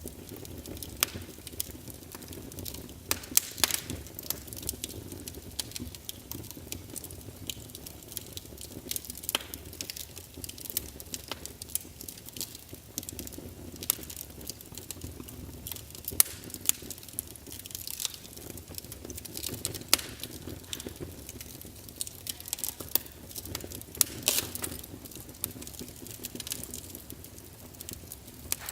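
Wood fire burning in a fireplace, with irregular crackles and sharp pops from the burning logs over a low steady rumble of flame.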